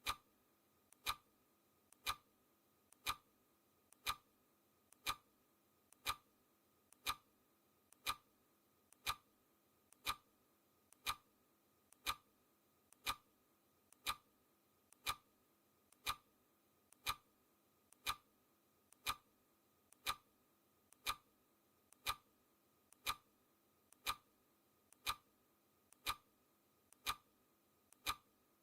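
Clock ticking sound effect keeping a steady pace: a sharp tick every second with a much fainter tick halfway between each.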